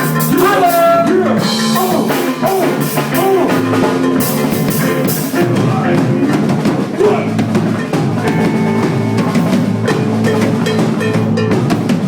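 Live band playing a jam, the drum kit to the fore with bass notes underneath.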